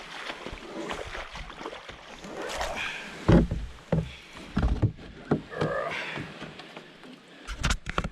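Canoe being moved through water: sloshing with several heavy knocks and thumps against the hull, and faint voices in the background.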